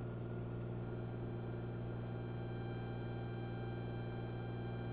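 Steady drone of a Cessna 182 in cruise, heard faintly through the headset intercom feed, with a steady electrical hum and faint high whine that do not change.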